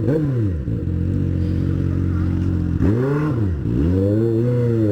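Motorcycle engine running under way, its revs swinging up and down as the throttle is opened and closed, with a rise and fall near the start and two more from about three seconds in.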